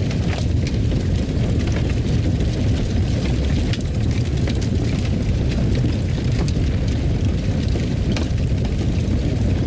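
Wood fire burning in a fireplace: a steady low rumble of flame with scattered, irregular sharp crackles and pops.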